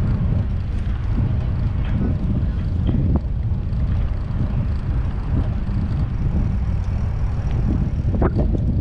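Wind buffeting the microphone of a moving bike rider, a steady low rumble, with a few short sharp sounds near the end.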